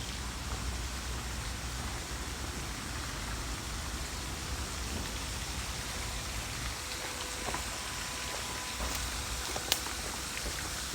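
Steady hiss of spraying water, with a low rumble underneath.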